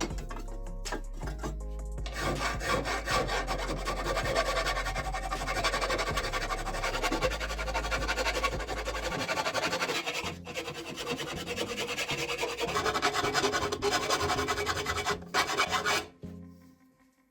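Rough rasping, scraping strokes of workshop tool work, with background music under it; the scraping stops near the end.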